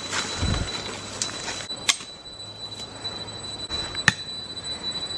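Four sharp, short knocks about a second apart, each with a brief ringing, over a steady thin high-pitched tone; a soft low thud comes just before them.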